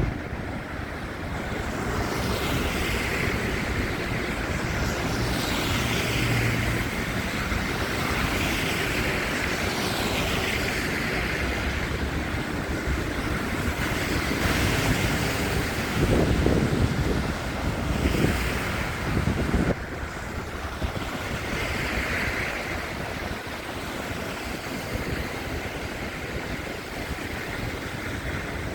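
Steady city traffic noise with wind on the phone's microphone, in a snowstorm. Swishes of passing vehicles come every couple of seconds, and a louder rumble swells about two-thirds of the way through.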